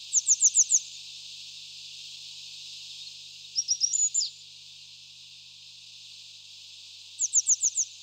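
Songbird singing over a steady high hiss: a quick run of five short downward-sweeping notes right at the start, repeated near the end, and a different short phrase of a few notes ending in a downward slur about halfway through.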